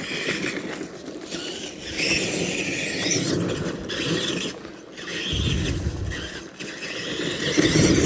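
Tamiya TXT-2 RC monster truck's electric motor and gears whining, rising and falling as the throttle is worked, over crunching and crackling as the truck crashes through brush and sticks. There are heavier thumps about five seconds in and near the end.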